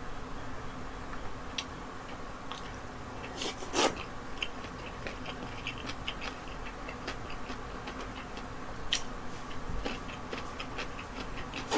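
Close-miked eating sounds of a person chewing gimbap and instant noodles: scattered soft mouth clicks and smacks over a steady low hum, with one louder wet mouth sound about four seconds in.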